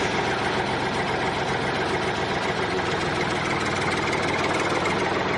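Steady engine-like running noise with a low hum, even in level throughout.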